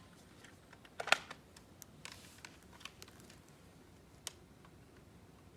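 A few small, sharp plastic clicks from the Nerf Rival Knockout blaster being reloaded and readied between shots, the clearest about a second in.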